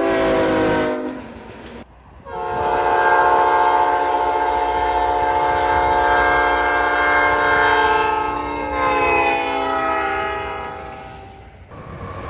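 Locomotive multi-chime air horn: a short blast that ends about a second in, then after a brief pause a long sustained blast. About nine seconds in the chord slides lower, as a horn does when the train passes.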